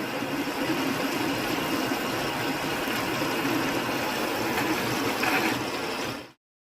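A power tool's motor running steadily, which stops abruptly about six seconds in.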